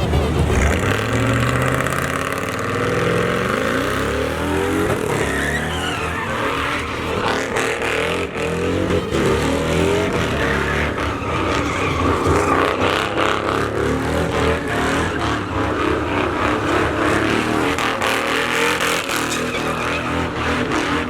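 Pickup truck engine revving hard during a burnout: the revs climb over the first few seconds, then hold high while the rear tyres spin and scrub on the pavement.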